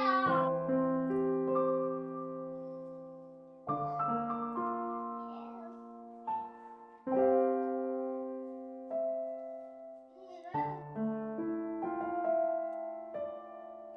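Background piano music: slow, sustained chords, with new chords struck about four, seven and ten and a half seconds in.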